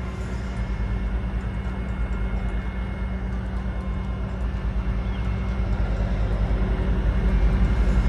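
A vehicle's steady low engine hum over a constant rumble of noise, cutting off abruptly just after the end.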